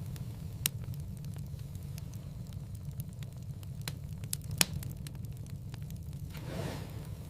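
Wood fire crackling in a fireplace: a steady low rumble of flame with scattered sharp pops, the loudest about a second in and about four and a half seconds in, and a soft hiss that swells and fades near the end.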